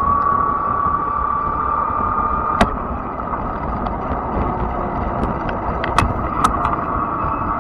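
Fat-tire electric bike riding along: a steady high whine over a low rumble of wind and tires, the whine dropping away about three seconds in. Several sharp clicks or ticks come in the second half.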